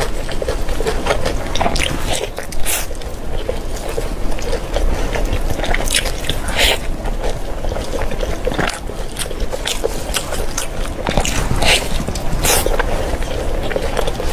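Close-miked mouth sounds of eating: irregular biting and chewing of food, with sharp crunchy clicks at uneven intervals.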